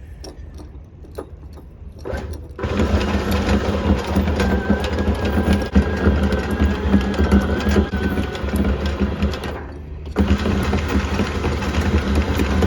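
Electric anchor windlass hauling in anchor chain: a motor hum with the chain clattering over the gypsy, starting about two and a half seconds in, stopping briefly near ten seconds, then running again.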